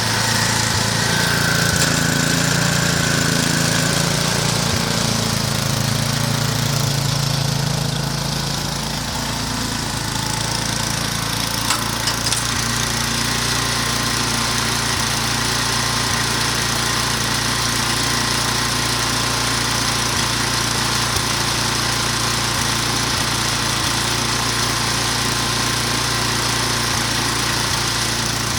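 Gas snowblower engine running steadily while blowing snow, its tone shifting slightly about nine seconds in, with a couple of short clicks a few seconds later.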